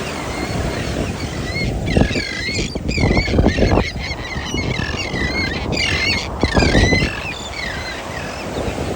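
A flock of shorebirds calling: many short, overlapping calls that dip and rise in pitch, thickest from about two to seven seconds in.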